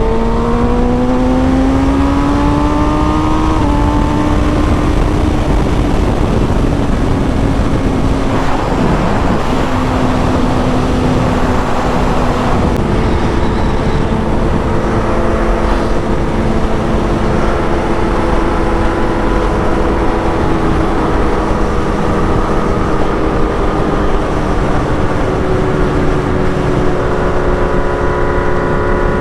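Kawasaki ZX-6R sport bike's engine under way, heard from the rider's position with heavy wind rush on the microphone. The engine pitch climbs in the first few seconds under acceleration and falls around eight seconds in. After that it cruises at a steady pitch, with small steps in pitch at gear changes.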